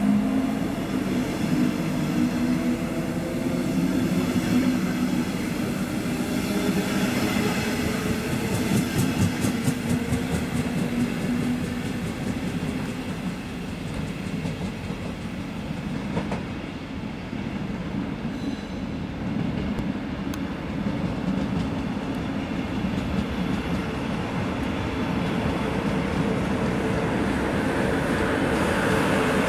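Electric-hauled double-deck regional train rolling along the platform. The locomotive hums over a rumble of wheels, with a run of clicks from the wheels over rail joints about a third of the way in. The train noise then drops to a lower rumble and builds again toward the end as trains move on the station tracks.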